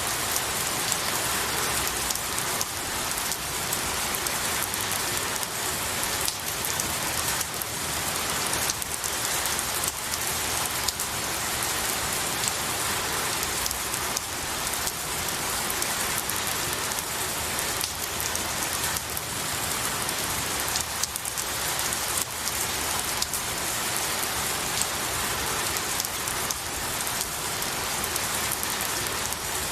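Steady rain falling on pine needles and trees: a dense, even hiss with many close, sharp drop impacts.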